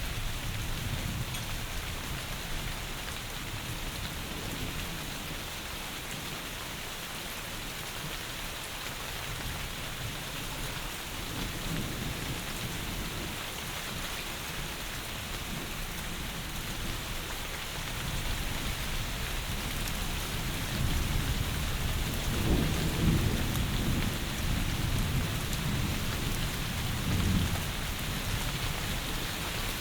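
Heavy rain falling steadily, with low rolling thunder swelling up about a third of the way in and again more strongly in the second half.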